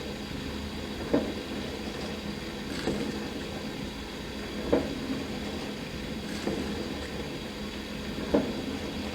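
Dishwasher running mid-wash: a steady motor hum and water spray, with a sharper hit about every two seconds.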